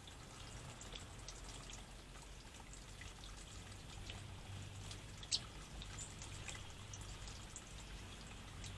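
Faint trickling of running water, with scattered short high ticks and one sharp click a little past five seconds in.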